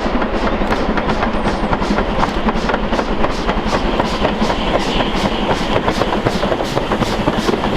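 Steam-hauled train running on the line, with a steady, rapid rhythm of sharp beats at about three a second.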